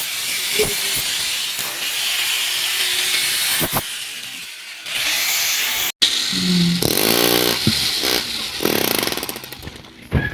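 Power tool drilling into the floor, a steady harsh grinding noise that drops away briefly about four seconds in and then starts again.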